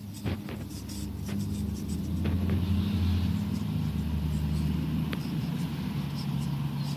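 Radio-controlled scale trail truck driving over rough ground: a steady low motor hum that shifts in pitch and grows louder about two seconds in, with scattered small clicks and knocks.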